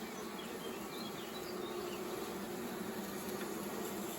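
Steady buzzing hum of many honeybees around an open hive.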